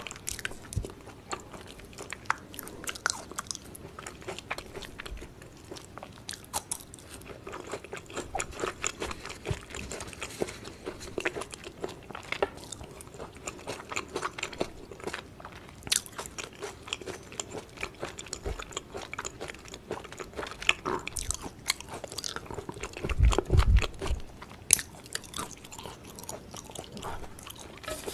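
A person chewing and eating, with a steady run of wet mouth clicks and smacks. A few louder dull thumps come about two-thirds of the way in.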